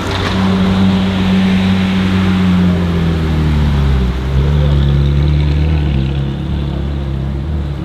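A car engine running steadily at low revs, its note dropping to a lower pitch about four seconds in.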